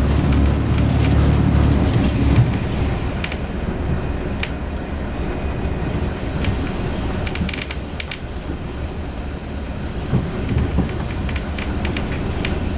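Diesel multiple unit running along the line, heard from its rear cab: a steady low engine and running drone, heaviest in the first couple of seconds, with scattered sharp clicks as the wheels pass over rail joints.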